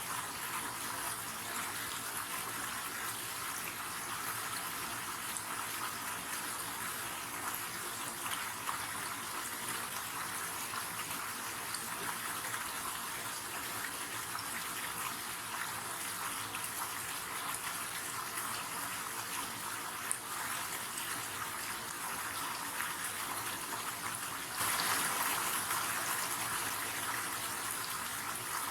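River water running in a steady, even rush, with a sudden step louder near the end.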